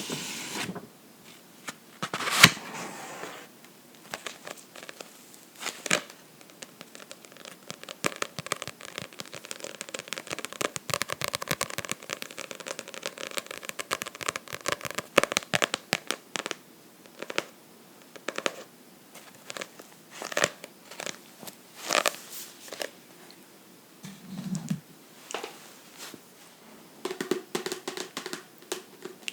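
Close-up taps and scratches on a book, sharp and irregular, with one loud tap about two seconds in and a dense run of quick scratching strokes in the middle.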